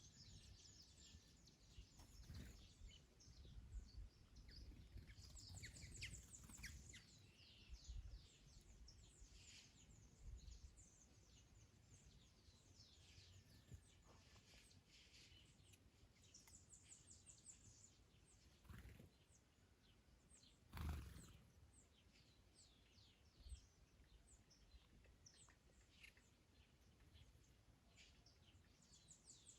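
Faint chorus of small birds chirping and trilling, with a low rumble of wind on the microphone; a short louder gust of wind noise about two-thirds of the way through.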